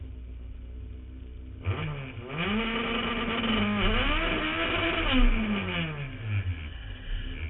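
Drag racing car's engine revving at the starting line: the revs climb about two seconds in, hold high with a dip and a second rise, then fall away to a low rumble near the end.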